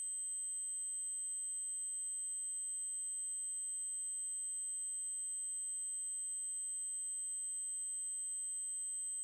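Synthesized 8192 Hz triangle-wave tone held at one steady, very high pitch.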